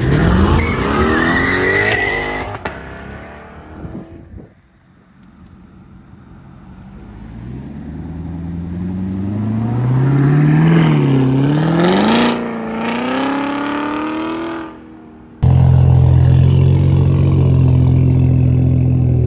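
Car engines accelerating hard. One climbs in pitch and fades away in the first few seconds, and a second builds up, rising and dipping in pitch as it revs through gear changes before fading. After an abrupt cut about three-quarters of the way in, a car engine runs steady and loud close by.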